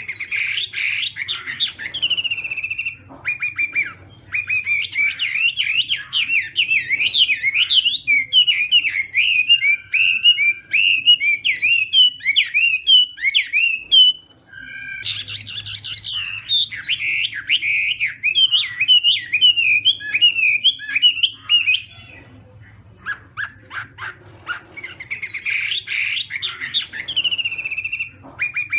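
Chinese hwamei singing a long, fast run of varied whistled phrases in its fighting song. The song pauses briefly about fourteen seconds in, then starts again.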